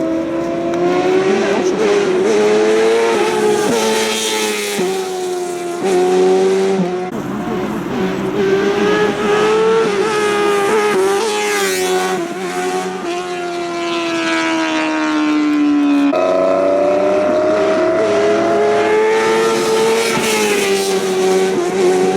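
Sport motorcycle engine running at high revs while riding, its pitch held high and drifting with the throttle, with a sudden change in pitch about two thirds of the way through as a gear is changed.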